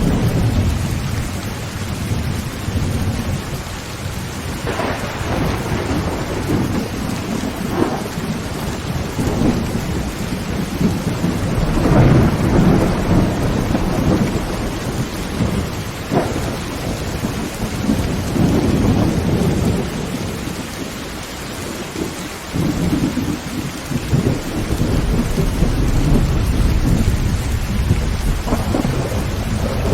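Heavy rain falling on a tin roof, with thunder rumbling and swelling throughout and a few sharper cracks in the first half.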